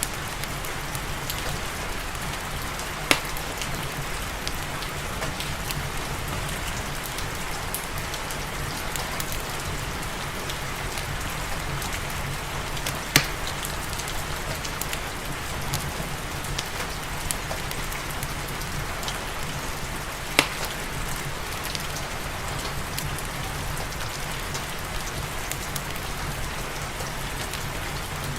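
Steady rain falling, a constant even patter, with the crackle of a wood fire in a fireplace; three sharp pops stand out above the rain, about 3, 13 and 20 seconds in.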